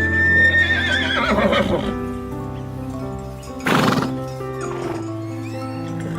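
A horse whinnying: a high call, held and then falling with a quaver, lasting about two seconds. A short loud noisy burst comes near the four-second mark. Background music plays steadily under it.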